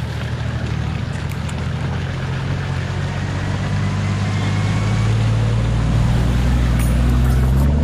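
Toyota LandCruiser 4x4's engine running steadily at low revs, gradually getting louder.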